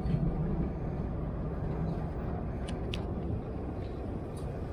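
Vintage wooden electric tram running along its track, a steady low rumble of the car in motion, with a couple of sharp clicks about three seconds in.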